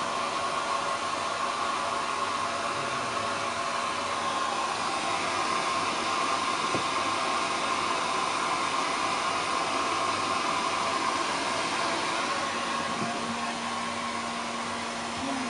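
Handheld hair dryer running steadily: a constant rush of air with a steady high whine, blowing a long-haired cat's coat dry after a bath.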